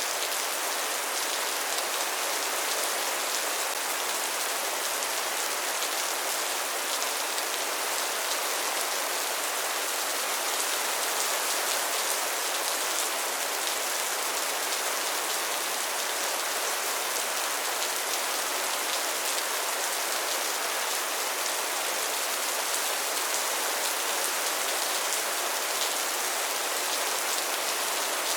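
Steady rain falling, an even hiss with fine patter of drops and no change in strength.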